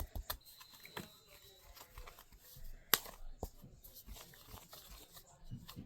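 Plastic scoop clicking and scraping against a small plastic bowl as powdered cake mix and water are stirred together. A quick run of light clicks at the start, then scattered taps, with one sharp knock about three seconds in.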